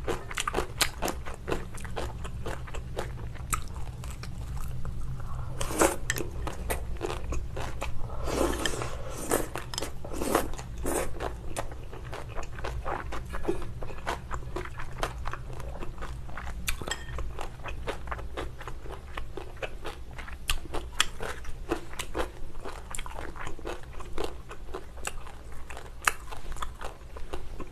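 Close-miked eating: steady chewing with many short, crisp crunches as mouthfuls of pork belly and kimchi are bitten and chewed, with a few louder, longer mouth sounds around the first third.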